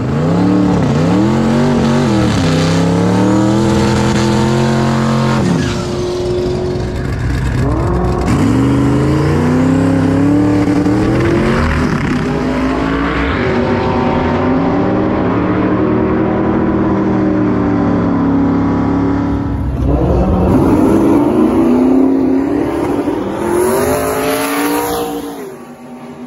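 Boosted drag-racing car engine at full throttle, its pitch climbing and falling again and again through the gears. The loud engine sound cuts off suddenly near the end.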